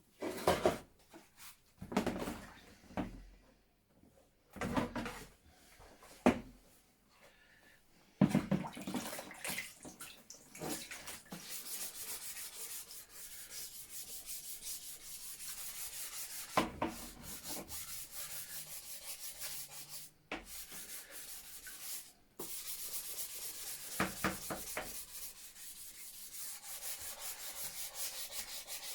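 A few knocks as a part is handled, then steady abrasive sanding, briefly interrupted twice, as a part is cleaned up during restoration.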